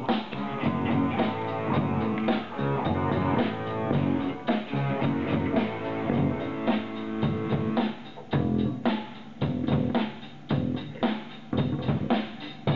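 A rock band playing live on electric guitar, bass guitar and drum kit, with no singing. From about eight seconds in, the band plays short hits together with brief gaps between them.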